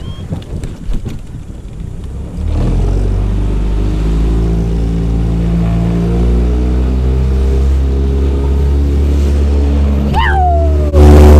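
Boat outboard motor starting about two seconds in and then running steadily. Near the end comes a short squeal that falls in pitch, and just after it the motor gets much louder as if throttled up.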